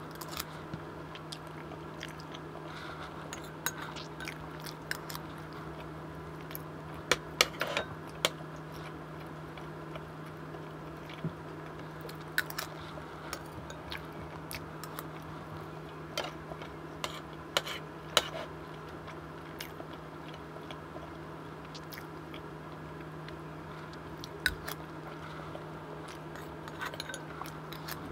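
Close-miked chewing and mouth sounds of eating chicken curry and rice, with a metal spoon clicking and scraping against ceramic bowls now and then. A steady low hum lies underneath.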